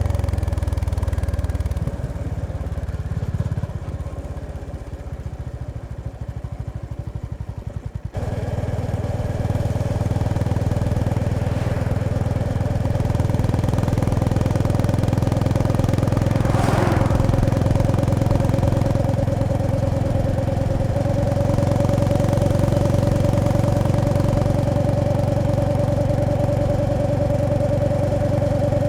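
Honda GB350S single-cylinder engine and exhaust at low revs for the first several seconds, its separate firing pulses audible. It then pulls harder from about eight seconds in and runs steadily under load, with a brief whoosh about halfway through.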